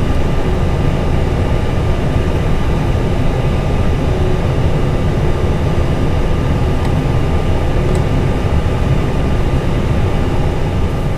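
Steady cockpit noise of an Airbus A320 taxiing: the engines at idle and the air-conditioning rush make an even low rumble, with a thin steady whine above it.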